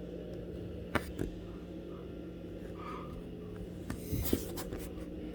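Faint steady low hum, broken by a couple of sharp clicks about a second in and a short burst of clicks and rustling a little after four seconds.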